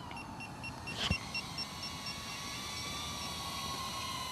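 DJI Neo 2 mini drone's propellers whining steadily, the pitch wavering slightly as it flies itself back under return-to-home after losing the controller signal. A fast high beeping runs through the first two seconds, and there is a sharp click about a second in.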